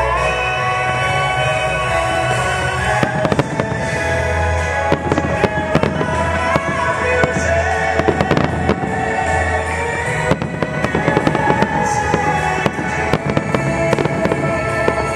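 Aerial firework shells bursting in a rapid volley of bangs and crackles, starting about three seconds in, with music playing throughout.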